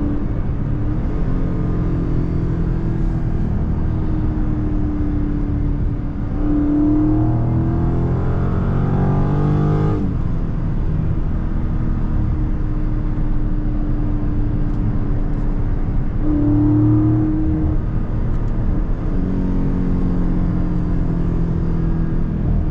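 Dodge Charger Scat Pack's 392 HEMI V8 with mid-muffler delete, heard from inside the cabin on the highway. The engine note climbs under acceleration about six seconds in, drops abruptly at an upshift about ten seconds in, and swells again briefly later on.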